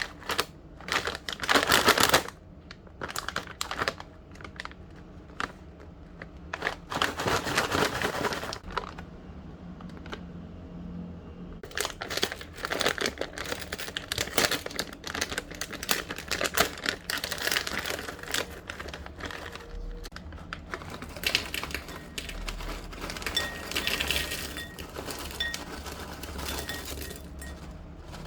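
Plastic snack bag of pea crackers crinkling and rustling as it is handled and opened, in loud bursts about two seconds in and again around seven to eight seconds, then scattered lighter crackles and clicks.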